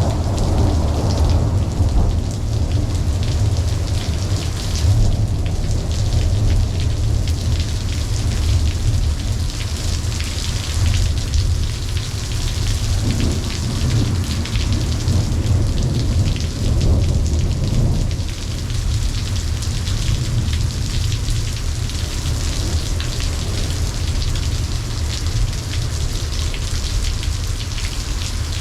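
Steady rain falling during a thunderstorm, with low rolling thunder that swells near the start and again past the middle, then dies away.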